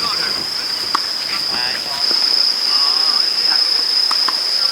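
A steady, high-pitched insect chorus drones without a break. A few sharp clicks sound about a second in and again near the end, with faint distant voices.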